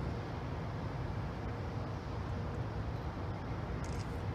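Steady low rumble of an approaching freight train's diesel locomotives, still some way off.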